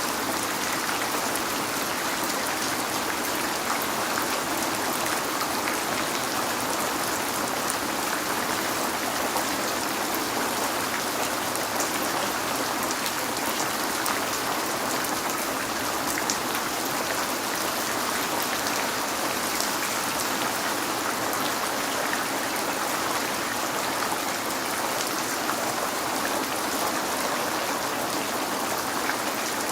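Steady rain falling, an even rushing hiss with fine scattered drop ticks, on a window.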